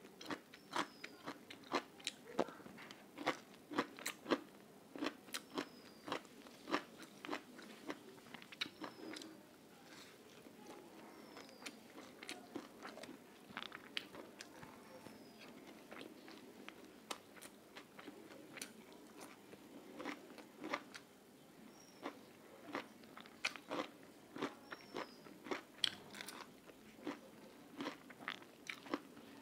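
Close-miked eating: a person biting and chewing food, with sharp crunches a few times a second over wet mouth sounds.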